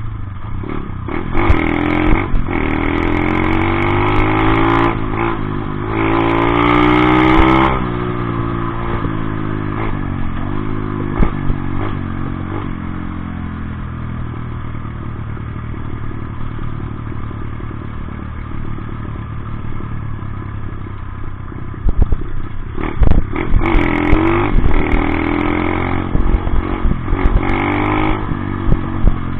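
Off-road motorcycle engine revving up in repeated rising runs, settling into a lower, steadier run in the middle, then revving hard again near the end with sharp knocks over it.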